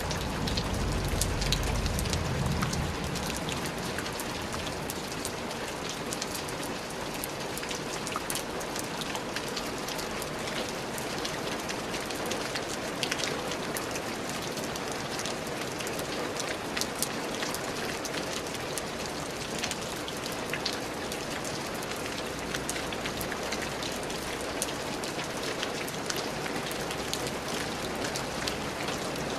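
Steady rain falling, with many separate drops ticking on a surface. There is a low rumble in the first couple of seconds.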